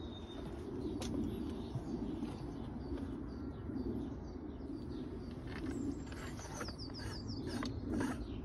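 Garden birdsong: a pigeon cooing in low, repeated swelling phrases, with a small songbird's quick run of high descending notes about seven seconds in.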